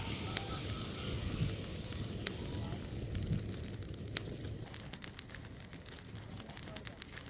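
Bonfire crackling, with a few sharp pops about half a second, two seconds and four seconds in, and fainter crackles over a low steady rush of the burning wood.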